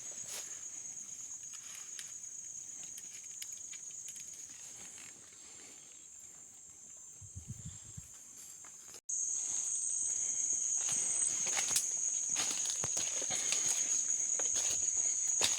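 Forest insects keep up a steady, high-pitched buzzing drone, with scattered crackles and footsteps on leaf litter. The sound drops out for an instant about nine seconds in and comes back louder.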